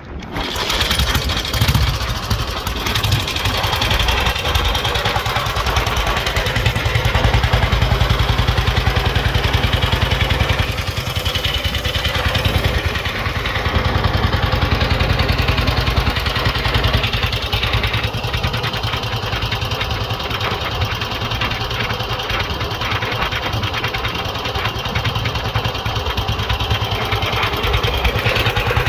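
1940 BSA WM20's 500cc single-cylinder side-valve engine running, its speed rising and falling a little.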